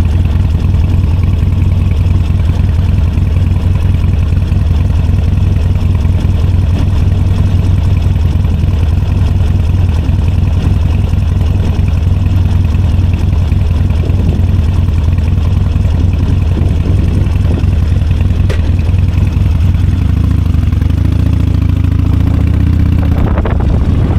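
Motorcycle engine running with a steady low rumble. Near the end a fainter tone glides up and down in pitch.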